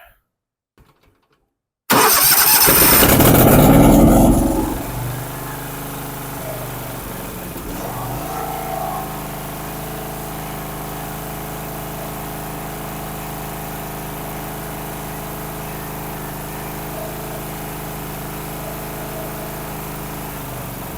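A John Deere Z665 zero-turn mower's Kawasaki V-twin engine starts suddenly about two seconds in. It is loud for the first couple of seconds, then settles into a steady run.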